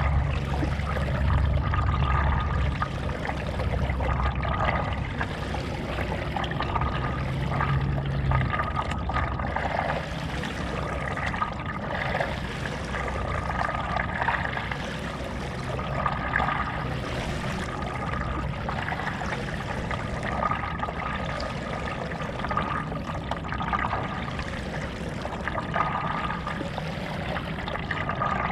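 Stand-up paddle blade dipping and pulling through lake water in a steady rhythm, with a splash and trickle about every two seconds.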